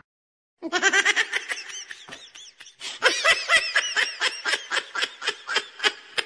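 A person laughing: a long run of rapid, high-pitched ha-ha bursts, starting about half a second in and carrying on to the end.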